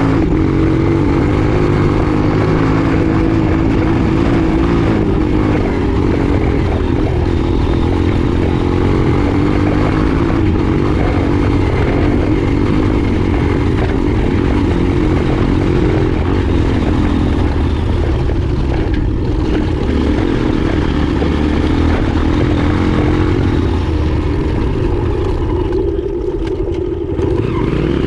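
Trail motorcycle engine running and revving steadily, its pitch wavering up and down.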